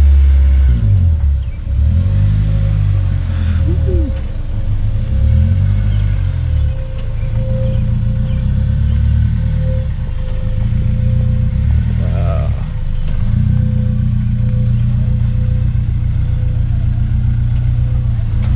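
Honda S2000's four-cylinder engine revved about five times, the pitch climbing and dropping back each time, then settling to a steady idle about thirteen seconds in.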